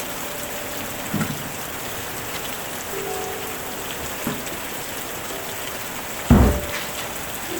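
Steady rain falling, with a dull low thud about a second in and a louder one near the end.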